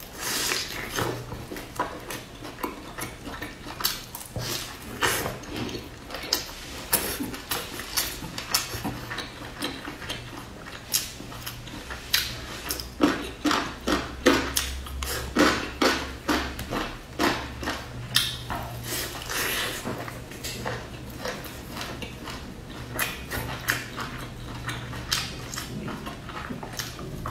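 Close-miked eating: bites and chewing of a crisp pan-fried stuffed flatbread, giving many irregular crunches and wet mouth clicks. About halfway through, chopsticks click in a plastic tub of pickled vegetables.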